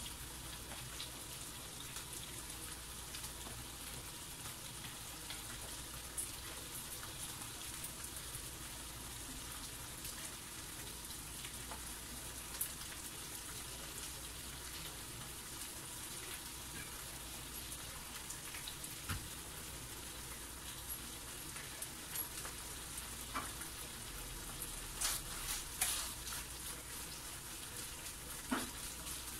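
Thin strips of beef sizzling in a nonstick frying pan: a steady quiet hiss with scattered small pops. Near the end a spatula stirring the meat adds a few louder clicks and scrapes.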